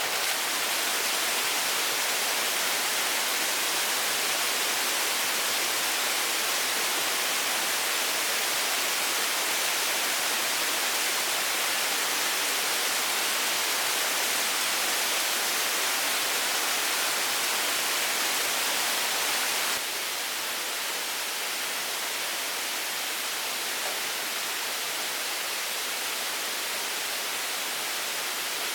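Steady rush of water, an even hiss that drops slightly in level about 20 seconds in.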